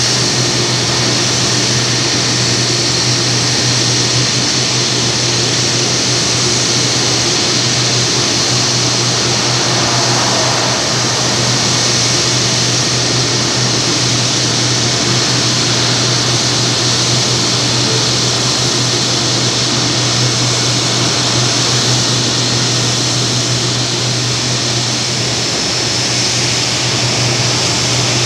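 Steady engine noise with a low hum and a high hiss, unbroken throughout.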